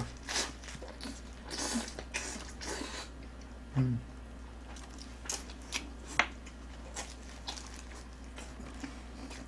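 Close-up eating sounds: biting and chewing braised short rib with aged kimchi, wet mouth noises broken by scattered sharp clicks, with a brief low hum about four seconds in.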